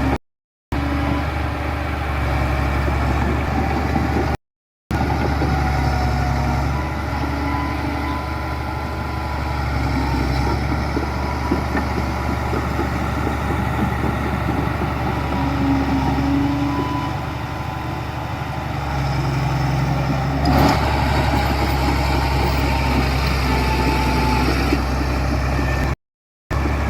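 Heavy diesel construction machinery, such as bulldozers and dump trucks, running steadily with a deep, even engine drone. There is one short knock about two-thirds of the way through, and the sound drops out briefly three times.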